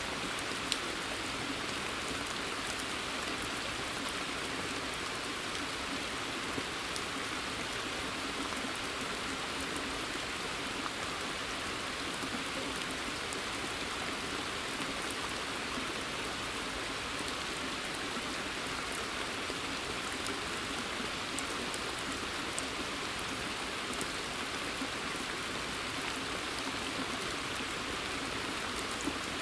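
Steady rain falling in a forest and onto the surface of a pond, with now and then a single nearer drop ticking.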